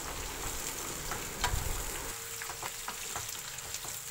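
Pointed gourd pieces and onion sizzling in hot oil in a frying pan while a wooden spatula stirs them, with scattered crackles and spatula scrapes over a steady sizzle and a low knock about a second and a half in.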